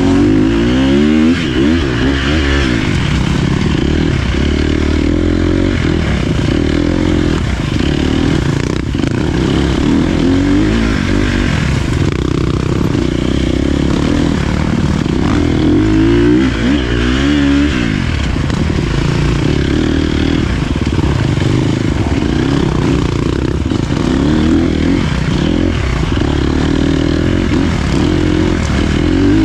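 Dirt bike engine being ridden along a trail, revving up and easing off again and again, its pitch rising and dropping every second or two.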